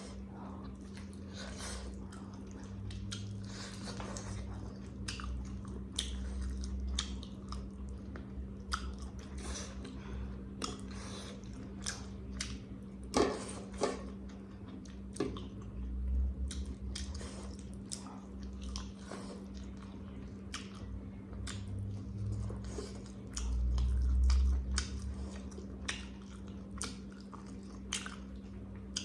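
Close-miked chewing and mouth sounds of a person eating rice and curry: many small wet clicks and smacks, over a steady low hum. A brief low rumble comes about three-quarters of the way through.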